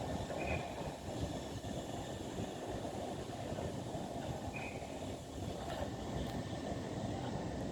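Electric passenger train running at the station, a steady low rumble of wheels and traction, with two faint short high tones about half a second and four and a half seconds in.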